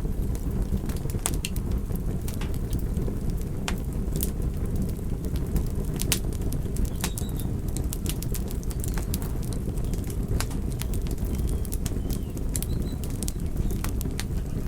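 Wood fire crackling: a steady low rush of burning with frequent sharp pops and snaps at irregular intervals.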